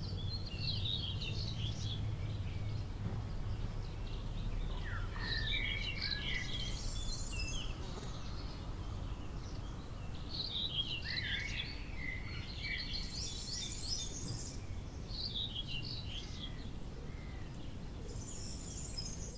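Birds chirping in short runs of quick, twittering notes, phrase after phrase, over a steady low background rumble.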